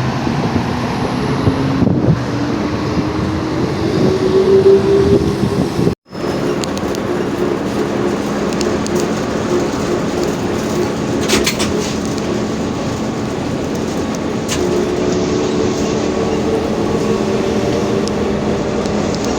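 Ride on a ZiU-682G trolleybus: the electric traction motor whines over the running noise, rising in pitch as the trolleybus gathers speed over the first few seconds, then holding steady, and climbing again as it accelerates near the end. The sound cuts out for an instant about six seconds in.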